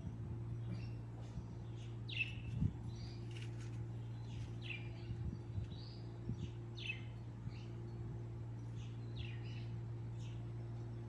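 Small birds chirping: many short, separate chirps, a few each second, over a steady low hum.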